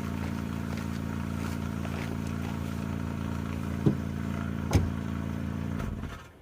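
Honda Fit engine running at a steady, even speed, with two sharp clicks about four and five seconds in, then shutting off near the end.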